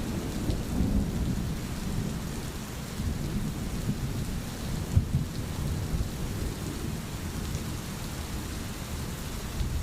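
Steady rain under a continuous low rumble of thunder, with one short, sharper loud peak about halfway through.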